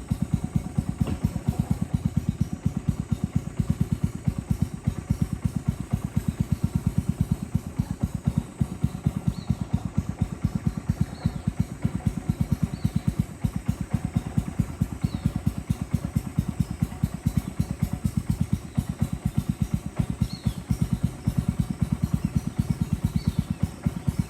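Boat engine running steadily under way, a rapid, even chugging of firing pulses.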